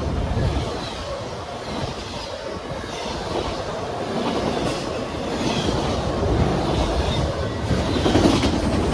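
A train rolling past: a steady rumble of wheels on rail that swells slightly near the end.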